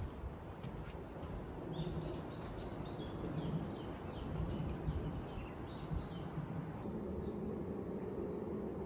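A small bird singing a fast run of about a dozen short, high notes, each sliding down in pitch, about three a second, over a steady background rush.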